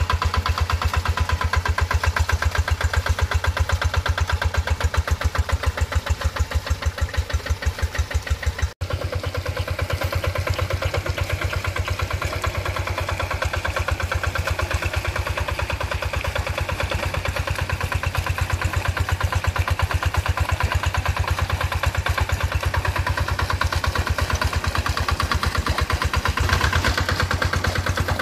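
Tractor engine running steadily with an even, rapid firing beat. The sound drops out for an instant about a third of the way through, then carries on the same.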